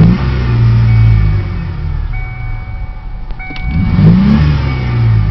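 1993 Ford Thunderbird engine revved hard in park: it falls back from a rev at the start, settles briefly, then is blipped up again about four seconds in and drops back toward idle.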